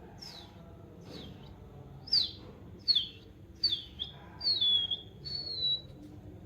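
Budgerigar calling with a run of about seven short whistled chirps, each sliding down in pitch. They are faint at first and louder from about two seconds in, and the last few are drawn out longer.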